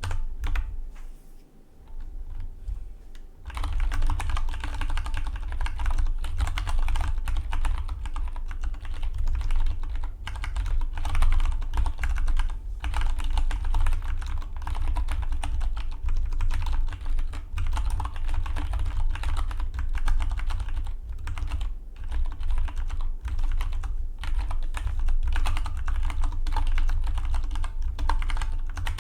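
Typing on a Dygma Defy split mechanical keyboard. A few scattered keystrokes come first, then fast, continuous typing starts about three and a half seconds in and carries on without a break.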